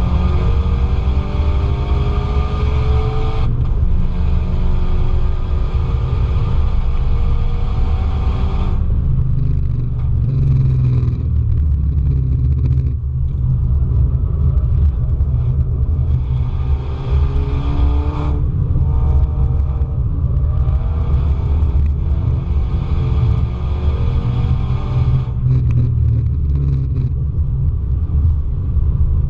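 Car engine heard from on board at a race circuit, revving up through each gear with a drop in pitch at each of several shifts, over a heavy low rumble.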